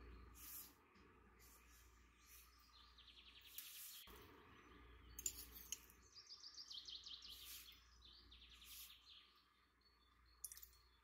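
Faint bird chirps and trills over quiet room tone, with a few light clicks.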